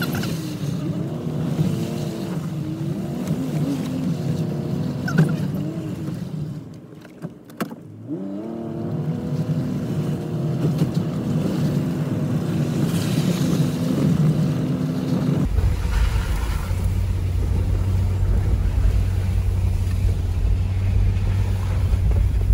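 Nissan Patrol's TB48 straight-six engine heard from inside the cabin while driving a rough dirt track, its pitch rising and falling with the throttle. It drops away briefly about seven seconds in. A little past the middle the sound changes abruptly to a deeper, steadier low rumble.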